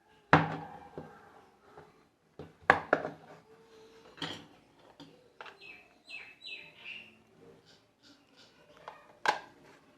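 Plastic parts of an opened Bluetooth speaker's housing being handled and set down on a hard surface: a series of sharp knocks and clatters, the loudest near the start and near the end. A few short, high chirps come in around the middle.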